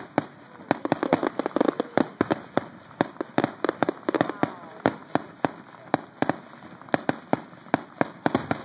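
Fireworks display: aerial shells bursting in a rapid, irregular series of bangs and pops, several a second.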